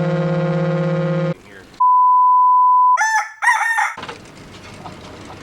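A car horn held down in one steady blare, stopping about a second in. Then a one-second censor bleep, a brief shouted voice, and the steady noise of the vehicle running.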